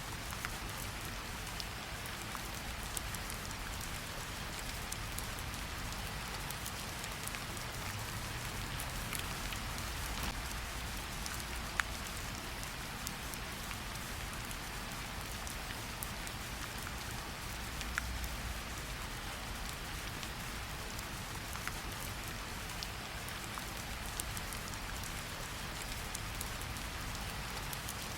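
Steady rain falling on a surface, with scattered sharper drop ticks, a few standing out about twelve and eighteen seconds in.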